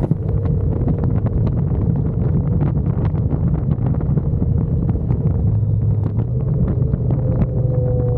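Motorcycle under way: a steady engine drone under heavy wind buffeting on the microphone, with the engine's hum coming through more steadily from about five seconds in.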